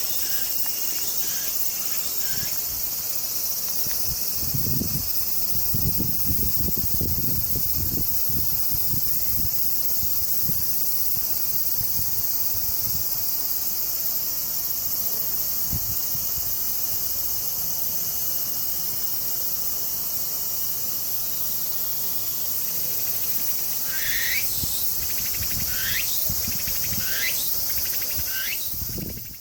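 Steady high-pitched chorus of insects, crickets or cicadas, running throughout. Low rumbling noise comes and goes in the first third, and four short rising calls sound about a second apart near the end.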